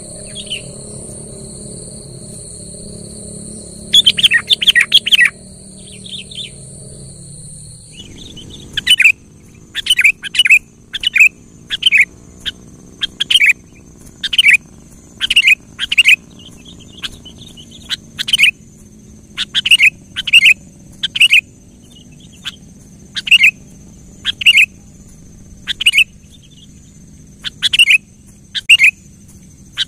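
Sooty-headed bulbul (kutilang) calling in short, sharp, loud notes repeated about once a second, with a quick cluster of notes about four seconds in. A steady high-pitched whine runs underneath.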